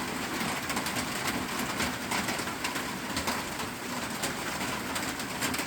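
Heavy rain drumming steadily on a metal roof, a dense patter of countless drops.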